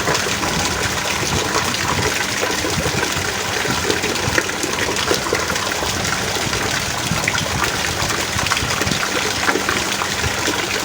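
Heavy rain falling steadily, a dense hiss of rain with countless small sharp drop hits throughout.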